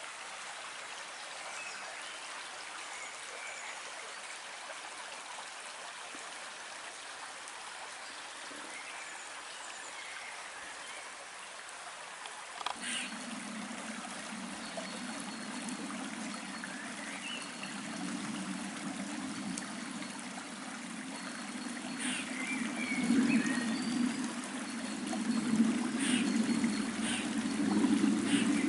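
Small stream running, a steady rush of water. About halfway through it suddenly becomes louder and deeper and keeps swelling toward the end.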